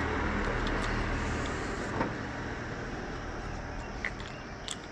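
Royal Enfield Classic's single-cylinder engine idling just after a cold start, running steadily and gradually getting quieter, with one short knock about two seconds in.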